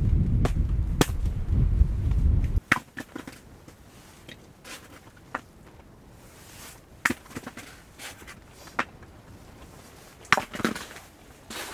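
Strong wind rumbling on the microphone with a few clicks, cut off abruptly about two and a half seconds in. Then a quiet stretch of scattered sharp knocks and crackles, with a short cluster of louder ones near the end.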